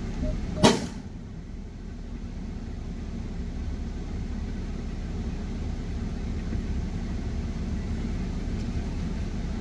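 Truck engine idling, a steady low rumble, with one sharp click less than a second in.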